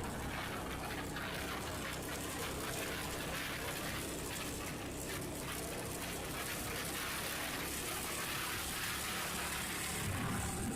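Steady wind rush and road noise from a moving motorcycle, with the engine's low steady hum beneath.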